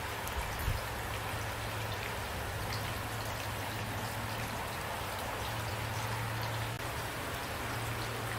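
Steady rain falling, with individual drops ticking close by over an even hiss of rainfall.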